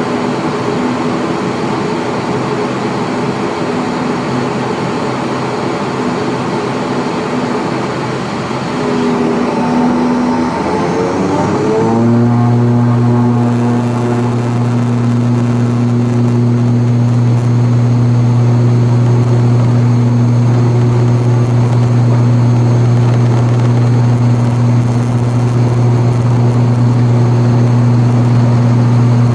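Cabin sound of an ATR42-600's Pratt & Whitney PW127M turboprops: the propeller hum rises in pitch about ten seconds in as power comes up for takeoff, then holds as a louder, steady low drone.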